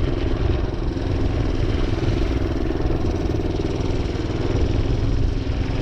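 Minibike engine running steadily while riding, with no clear revving up or down.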